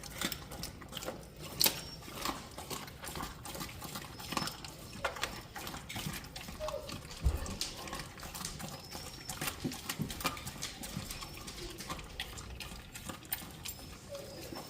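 Big mastiff dog chewing raw meat and bone, with irregular crunches and cracks throughout.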